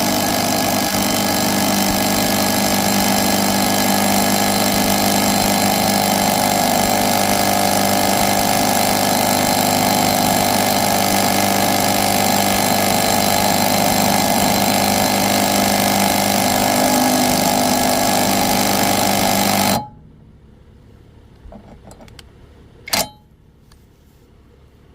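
Bauer brushless 3/8-inch-drive impact wrench hammering steadily for about twenty seconds on a 24 mm lawnmower blade bolt, failing to break it loose, then cutting off suddenly. A single short metallic click follows a few seconds later.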